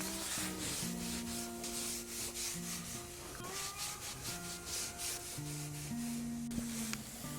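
Paper towel rubbed back and forth across a griddle, wiping off the Crisco it was seasoned with, in quick repeated scratchy strokes.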